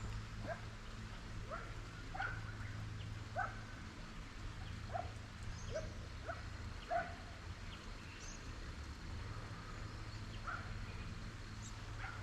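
Hunting dog barking faintly and repeatedly, roughly once a second, over a steady low hum.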